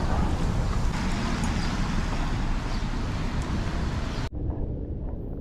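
Steady outdoor street noise with road traffic, heaviest in the low rumble. About four seconds in, the hiss higher up cuts off abruptly, leaving only the low rumble.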